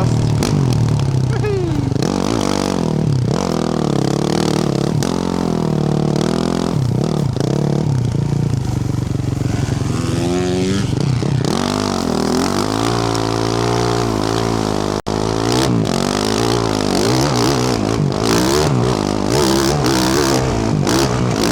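A Yamaha YZ450F's single-cylinder four-stroke engine, breathing through a Yoshimura RS-12 exhaust, revving up and down again and again as the dirt bike is ridden on a rough track. The sound cuts out for an instant about fifteen seconds in.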